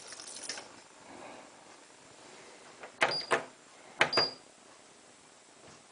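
Two sharp clacks about a second apart, each with a brief high ring, from a Hotpoint WT960 washing machine, over a faint steady background.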